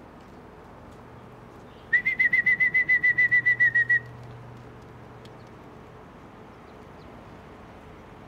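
A trilling whistle held on one high, slightly falling pitch for about two seconds, warbling about six times a second.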